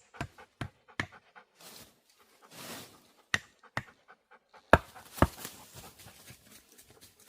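A dog panting in short, quick breaths about three times a second, then two sharp cracks a little past halfway.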